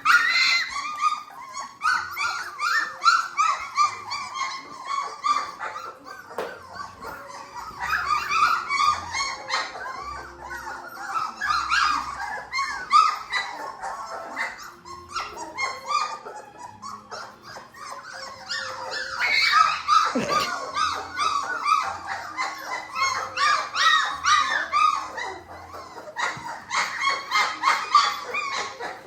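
A litter of three-week-old Labrador retriever puppies vocalising: many short, high-pitched calls overlapping almost without a break, the new voices of very young puppies.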